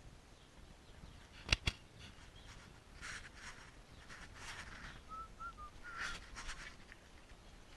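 Two sharp clicks in quick succession, like metal tapping metal, then intermittent scraping and rustling. A few faint short chirps come through about two-thirds of the way in.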